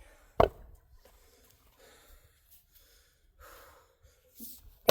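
Fiskars X27 splitting axe striking a log: one sharp crack about half a second in and another at the very end, with heavy breathing between.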